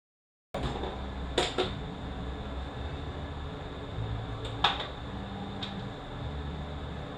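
After a moment of dead silence, a steady low hum of workshop room tone sets in, with a few sharp metallic clicks and knocks: two close together about a second and a half in, a louder one past the middle, and a faint one soon after.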